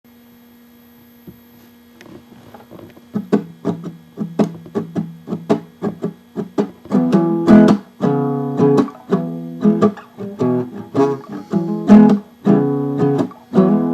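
Guitar instrumental intro. Single picked notes come in about two seconds in, and fuller, louder strummed chords take over from about seven seconds.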